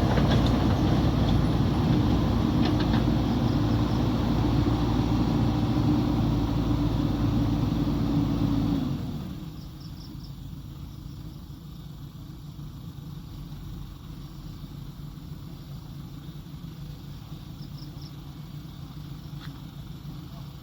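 Heavy earthmoving machine's diesel engine running loud and steady with a held hum, then about nine seconds in the sound drops suddenly to a much quieter, steady engine drone.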